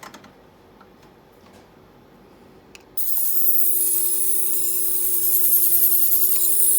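Vaser ultrasonic liposuction handpiece switched on at a power setting of 100 about three seconds in: a sudden loud, steady high-pitched hiss with a steady low tone underneath.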